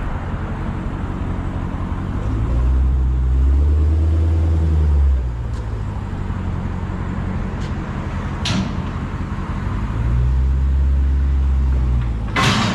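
Dodge Challenger Hellcat's supercharged V8 idling with its mid mufflers deleted, a deep steady drone that twice swells louder for a couple of seconds. A couple of sharp clicks come in the second half.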